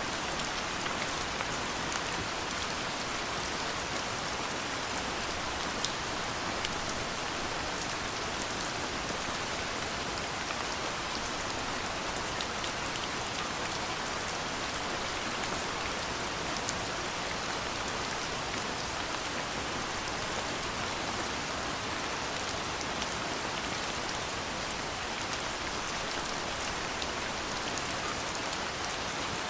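Steady, soft rain falling, with scattered individual drops ticking on a surface.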